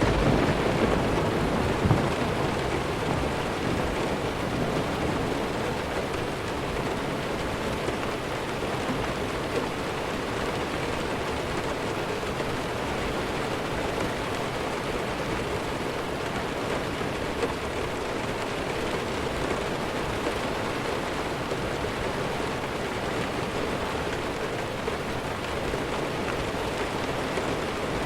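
Steady rainfall with a low roll of distant thunder that rumbles over the first few seconds and fades away.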